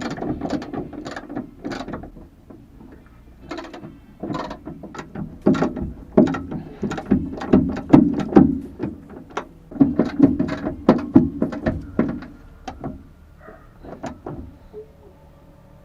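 Hand ratchet wrench clicking in quick runs with short pauses, tightening the mounting bolts of a car's rear strut bar.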